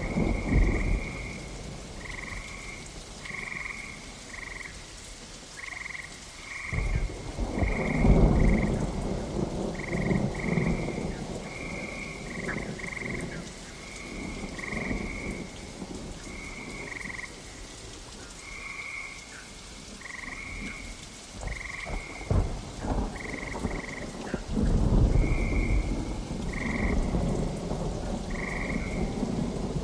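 Thunderstorm recording: steady rain with thunder rumbling twice, about seven seconds in and again from near the end, over frogs croaking in short calls repeated one or two times a second.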